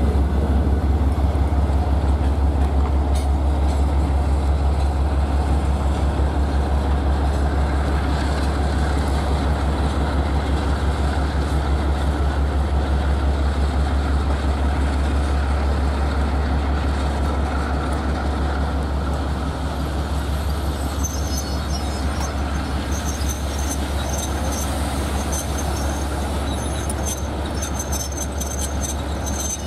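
Freight train hauled by a 2TE116UD two-section diesel locomotive moving off, with a steady deep diesel rumble and the noise of the rolling wagons. From about twenty seconds in, a high wheel squeal with rapid clicking joins in.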